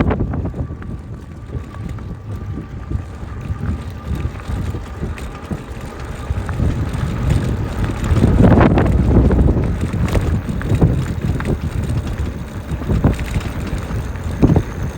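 Wind buffeting the microphone in a steady low rumble, with a stronger gust about eight seconds in.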